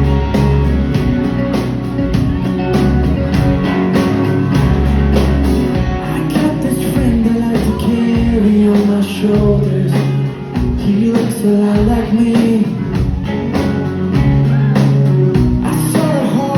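A rock band playing live: drums keeping a steady beat under bass and guitars, with some singing.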